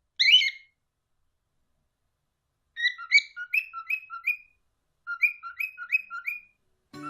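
Pet parrots chirping: one short call, then two runs of quick rising chirps, five or six in each, alternating a lower and a higher note.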